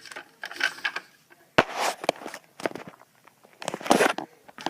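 Handling noise: scattered clicks, taps and brief rustles, with one sharp click about one and a half seconds in and a louder rustle near the end.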